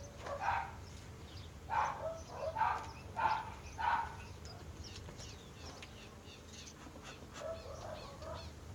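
A dog barking, about six short barks in the first four seconds, then quieter.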